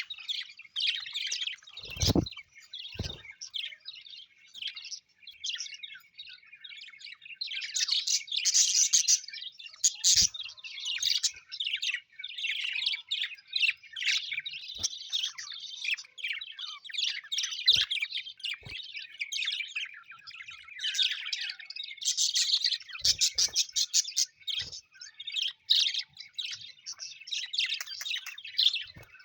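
Several small birds chirping and twittering continuously in a dense, unbroken chatter, with a few dull knocks, the plainest two about two and three seconds in.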